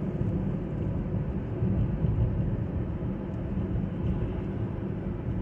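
Steady road and engine noise inside a moving car's cabin: an even low rumble with no distinct events.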